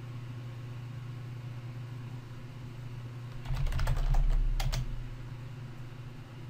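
Computer keyboard typing: a short run of keystrokes about three and a half seconds in, over a steady low hum.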